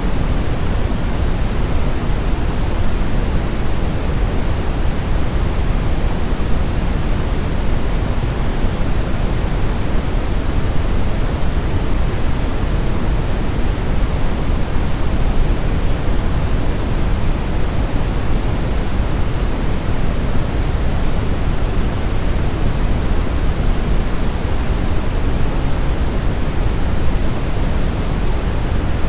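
Brown noise: a steady, even rushing hiss weighted toward the low end, without any change.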